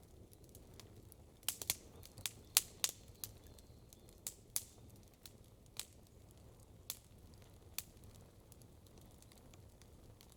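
Wood campfire crackling: sharp pops and snaps, several in quick succession about one and a half to three seconds in, then single pops every second or so, over a faint low background.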